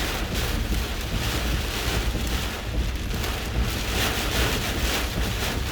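Hurricane eyewall winds buffeting a vehicle, heard from inside: a loud, steady rush that swells and eases, with a low rumble and wind noise on the microphone.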